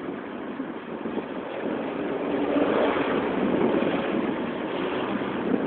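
Motorcycle riding along: engine running under heavy wind noise on the microphone, both growing louder about halfway through and then easing off.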